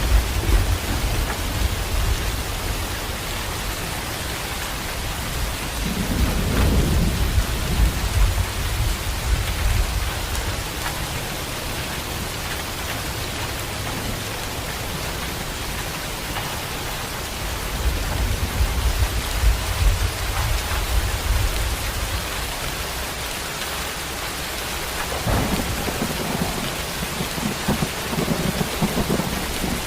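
Heavy rain falling steadily, with deep rolls of thunder rumbling through it several times.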